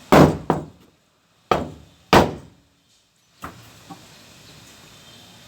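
Hammer blows on the sheet-metal side panel of an L300 van during body repair: four loud strikes with a short ringing tail in the first two and a half seconds, then two lighter taps.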